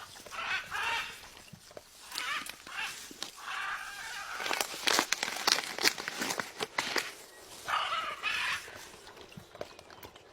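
Several short, harsh bird calls, with a run of sharp clicks in the middle.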